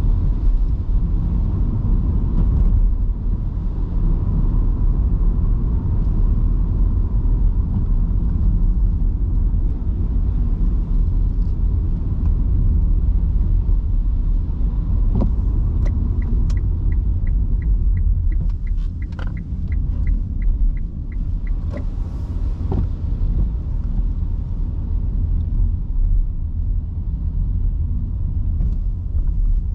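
Low rumble of road and tyre noise from an electric car driving on wet streets in heavy rain. About halfway through comes a run of even ticks, about three a second, lasting some five seconds, with a few scattered clicks.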